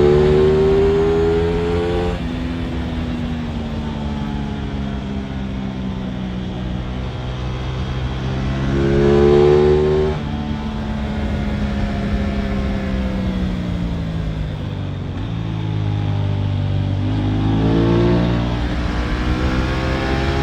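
Aprilia RS 660's parallel-twin engine on the move, pitch rising under throttle and dropping suddenly about two and ten seconds in, with stretches of steady and slowly falling revs between and another climb near the end.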